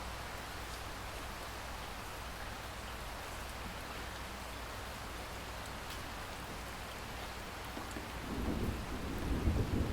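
Steady rainstorm, rain falling with an even hiss. About eight seconds in, a low rumble of thunder swells up and is loudest near the end.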